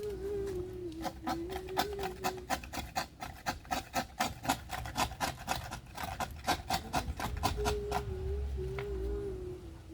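Quick back-and-forth scraping strokes on a workpiece, about five a second, running for several seconds in the middle. A wavering hum-like tone is heard at the start and again near the end.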